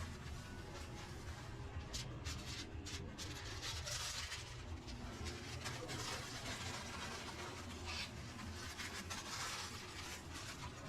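Restaurant kitchen at work: a steady low hum with intermittent rustling and scratching of food and packaging being handled.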